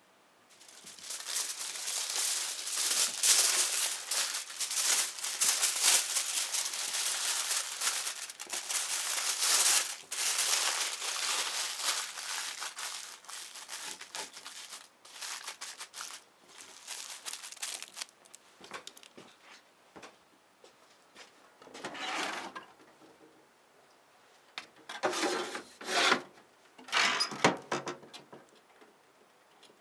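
Rough scraping and rasping in quick, irregular strokes for about seventeen seconds, then a few short bursts of the same scraping after a pause.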